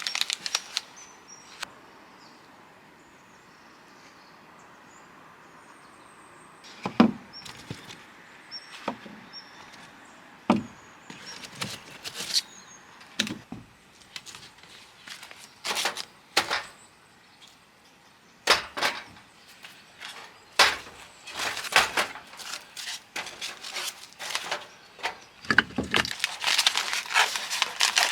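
Irregular knocks, taps and rustles of things being handled, a few sharp, solid knocks among them, growing busier toward the end, with a few faint high chirps in the quieter first seconds.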